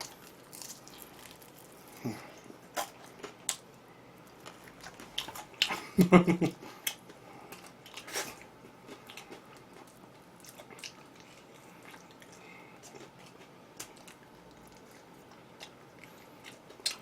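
A person eating close to the microphone: chewing and biting, with scattered crunches and small clicks, and a louder mouthful about six seconds in.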